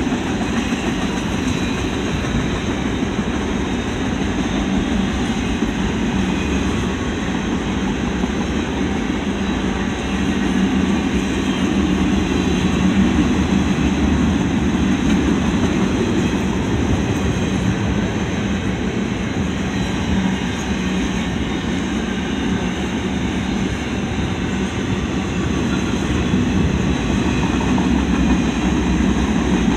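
Double-stack intermodal freight train's container well cars rolling past: steel wheels running on the rails in a steady, unbroken rumble.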